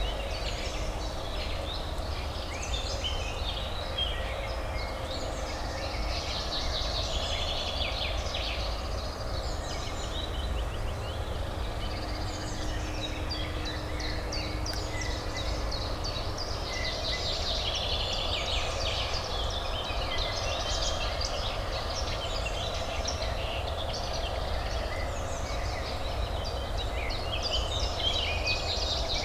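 A chorus of many birds singing and calling over a steady low hum of distant city traffic.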